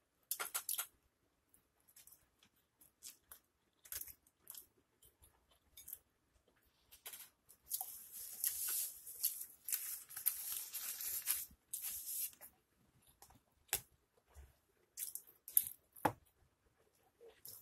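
Close-miked chewing and mouth sounds from eating a pulled pork sandwich: scattered short wet clicks and smacks, with a few seconds of denser crackly noise in the middle.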